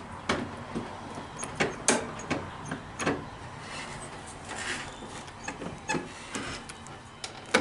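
Irregular clicks and knocks from handling inside a car, with no engine running.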